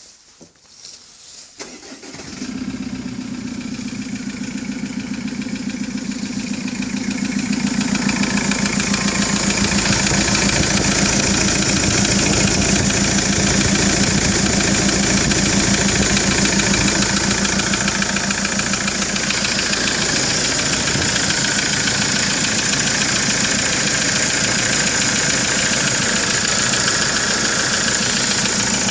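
Kia Sorento D4CB four-cylinder 2.5 litre diesel engine starting about two seconds in and then idling steadily with diesel clatter. It grows louder about eight seconds in, then holds steady.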